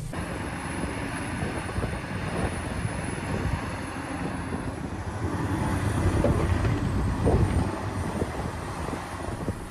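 Excavator engine running, a dense mechanical noise that gets louder about six seconds in.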